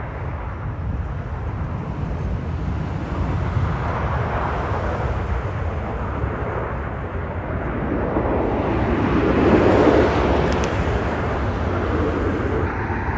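Jet airliner's engines running in reverse thrust on the landing roll: a loud, steady roar that builds to its peak about ten seconds in, then eases slightly.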